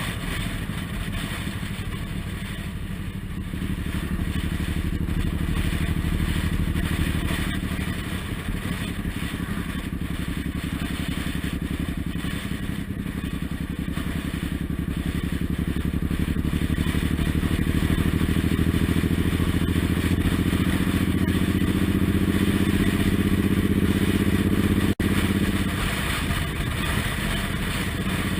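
Suzuki Intruder M1800R's big V-twin running on the road, heard from the bike with road and wind noise. Its note climbs steadily as it gathers speed, then cuts out for an instant near the end and comes back lower in pitch.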